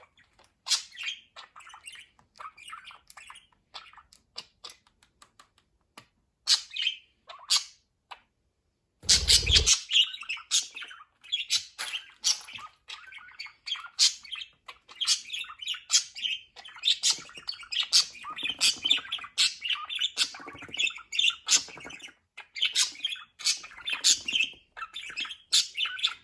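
Budgerigars chirping and chattering with quick clicks and squawks, scattered at first and then busy and continuous over the second half. A short dull thump about a third of the way in.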